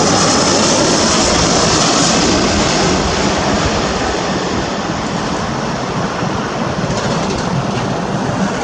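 Airbus A321-211's CFM56 jet engines, a loud rushing roar with a high whistling hiss at first, easing off from about three seconds in as the airliner moves away.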